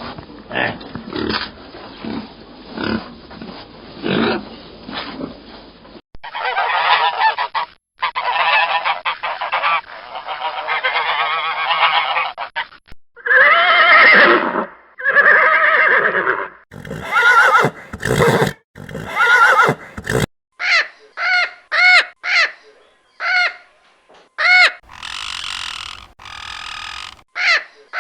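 A run of different animal calls, one clip after another with abrupt changes between them. Near the end comes a string of short, separate pitched calls, about two a second.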